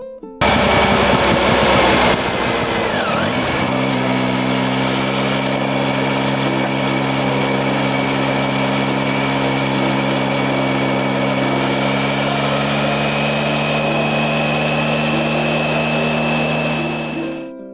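Triumph Tiger 800XC motorcycle engine running at a steady pitch while riding, under wind and road noise. The first couple of seconds carry a heavier rush of wind noise.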